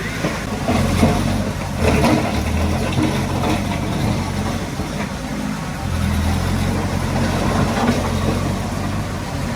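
Diesel engine of heavy earthmoving equipment running steadily, its low hum getting louder for stretches about a second in, around two seconds in, and again from about six to eight seconds in, with a few short knocks.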